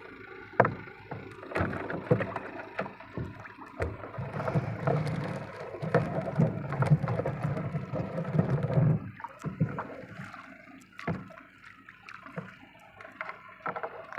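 Irregular knocks and clatter in a small boat, busiest in the middle stretch, with some water noise.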